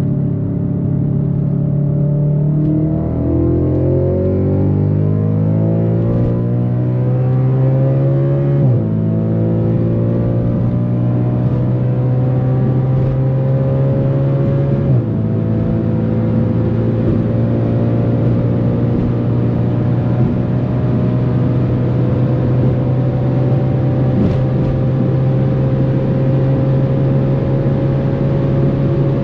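Audi RS4 B8's 4.2 FSI V8 with a straight-pipe exhaust pulling hard, its pitch climbing from about three seconds in. It upshifts about nine and fifteen seconds in, then climbs slowly in a high gear and levels off near the end, toward top speed.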